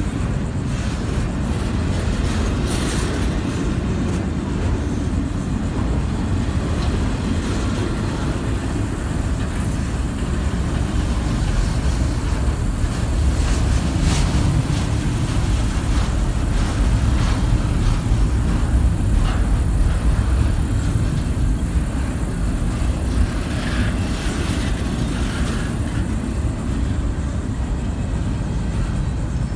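Double-stack intermodal container cars rolling past on steel rails: a steady low rumble of wheels on track, with scattered clanks and clicks.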